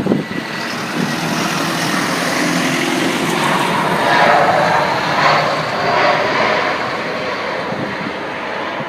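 Airbus A320 jet airliner landing: a steady jet-engine noise with low engine tones, swelling to its loudest about four to six seconds in and easing off after.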